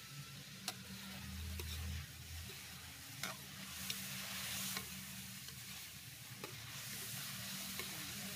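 Chicken pieces sizzling as they fry in hot ghee in a metal karahi, stirred with a metal spatula that clicks and scrapes against the pan several times. It is the stage where the chicken is sautéed in ghee alone, before the tomatoes go in.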